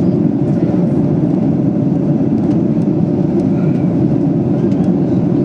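Steady cabin noise of a Boeing 737-800 in flight: a loud, even, low rumble of its CFM56-7B engines and rushing air, heard from a window seat.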